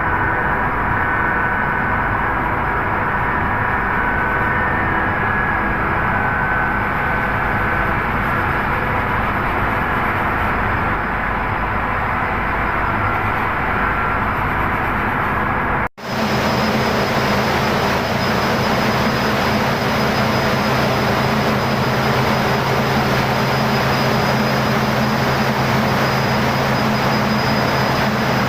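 Gas engine running steadily at a constant speed. About 16 seconds in the sound drops out for an instant and comes back with a heavier, deeper tone.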